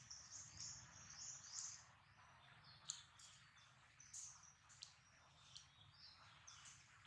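Faint, high-pitched bird chirps, short calls coming irregularly one after another, over a low background hum.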